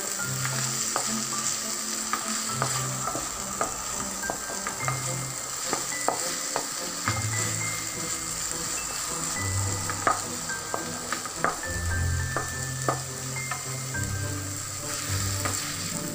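Chopped tomatoes and onions sizzling in hot oil in a non-stick wok, stirred with a wooden spatula that knocks and scrapes against the pan at irregular moments.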